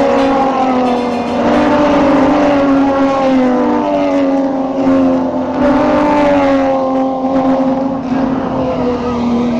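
Racing car engine running hard at high revs, a steady, loud note whose pitch wavers and dips slightly a few times.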